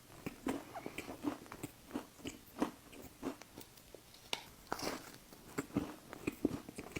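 Someone biting into and chewing a chocolate cake batter cookie, close up: a run of small, irregular mouth clicks and smacks.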